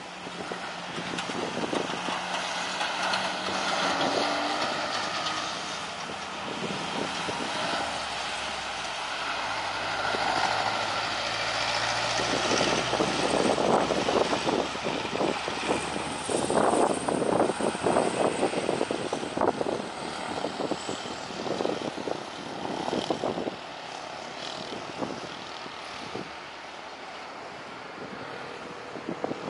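Garuda Indonesia jet airliner's engines running, a steady roar with a thin high whine through the middle, while gusting wind buffets the microphone.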